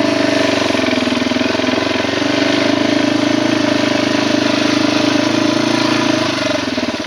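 Off-road vehicle engine running steadily close by, a little higher in pitch through the middle, then cutting out near the end.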